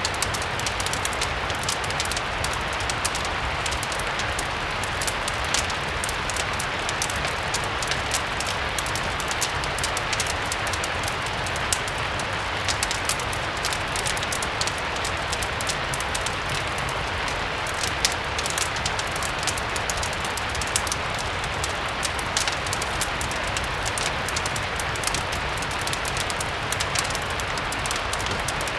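Steady rain as a continuous hiss, mixed with a crackling fireplace whose small sharp pops and ticks come through all the time.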